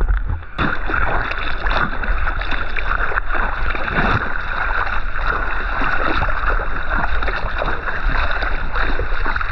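Water sloshing and splashing around a kayak under way, with many irregular splashes, while wind buffets the microphone with a steady low rumble.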